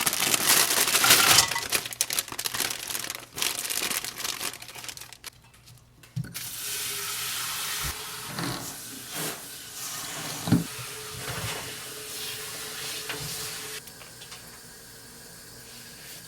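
Plastic packaging crinkling and rustling, then water running steadily from a kitchen tap for several seconds, with a few knocks, cutting off abruptly.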